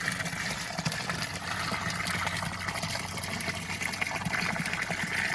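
Water from a hose running steadily into a sump basin as the basin fills.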